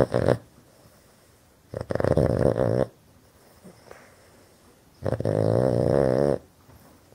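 Boston Terrier snoring loudly in sleep, a snore the breed is known for: two long snores about three seconds apart, each lasting a second or more, with the tail of another at the very start.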